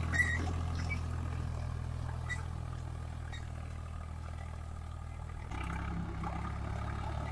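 Swaraj 744 FE tractor's three-cylinder diesel engine running steadily with a low hum, with a sharp clack near the start. The engine note changes abruptly about five and a half seconds in.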